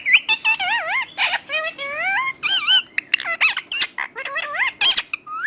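Parrot calling in a rapid run of short whistles and squawks, each one sliding up and down in pitch, with barely a pause between them.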